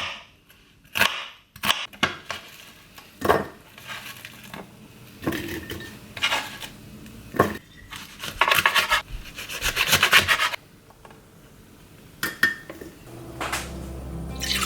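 Kitchen clatter: dishes and metal utensils knocking and scraping against each other in a series of separate clinks, with a quick run of strokes about eight seconds in. Background music comes in near the end.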